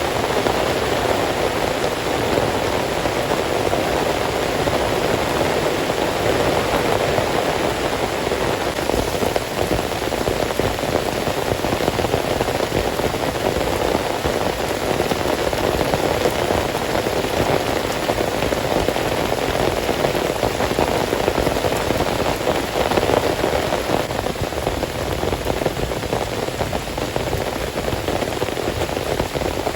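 Heavy rain falling steadily, a dense, even hiss of drops on surfaces with no breaks.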